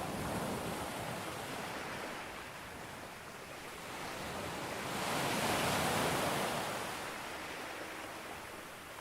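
Sea waves breaking on a beach: a steady wash of surf that swells into one louder breaking wave about five seconds in, then ebbs away.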